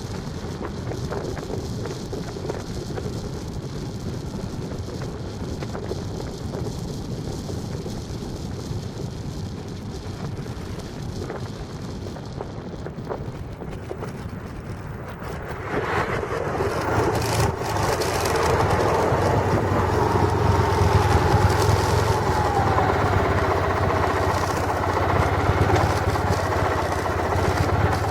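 Vehicle running with steady road noise; about halfway through it grows louder, with a low hum and a slowly wavering whine.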